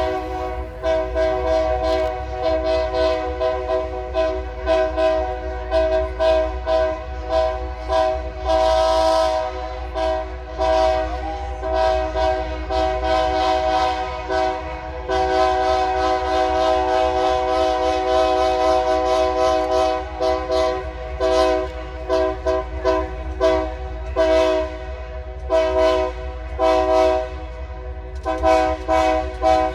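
Locomotive air horn blowing one long continuous chord of several tones, unbroken throughout, with many sharp short cracks sounding over it.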